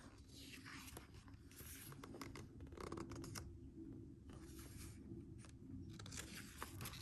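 Faint rustling and scraping of paper as a book's pages are handled and turned.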